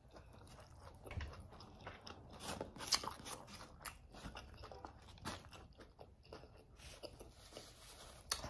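A person biting into and chewing a Subway turkey sandwich on Italian herbs and cheese bread: soft, irregular crunches and mouth sounds, with one sharper crunch about three seconds in.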